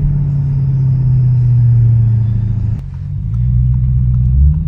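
Straight-piped Audi S7 exhaust droning under way, its low pitch sagging slightly; the sound dips sharply about three seconds in, then builds again and drops away near the end.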